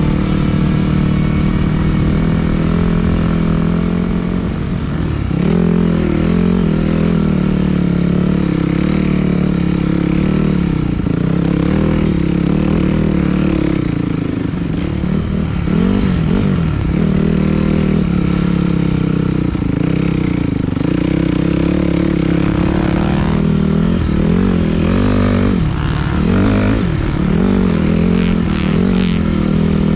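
Dirt bike engine running under load while riding, its pitch rising and falling repeatedly as the throttle is worked, with quicker swings in the second half.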